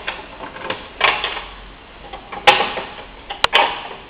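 Clicks and knocks as parts of an electric fireplace insert are handled and set back in place: a few light ones, the loudest about two and a half seconds in, then a quick pair near the end.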